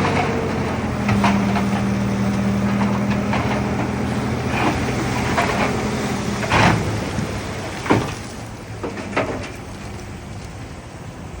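Heavy diesel engine of earthmoving machinery running steadily, with a series of sharp metallic clanks and knocks. The engine sound fades away about two-thirds of the way through, while a few more knocks follow.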